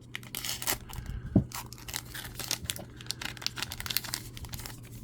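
Baseball card pack wrappers crinkling and tearing as they are cut open and handled, with rapid irregular crackles throughout. A single sharp knock about a second and a half in. A steady low electrical hum underneath.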